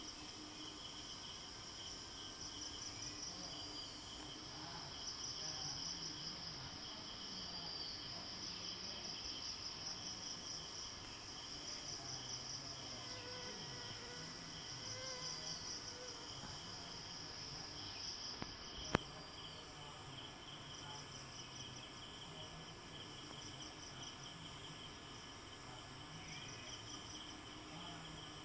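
A steady chorus of insects trilling, cricket-like, a fast pulsing at two high pitches. A few short, faint bird chirps come through, and a single sharp click sounds about two-thirds of the way in.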